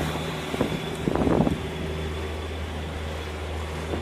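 Suzuki outboard motor running at a steady speed, a low even drone, with a brief louder noise just after a second in.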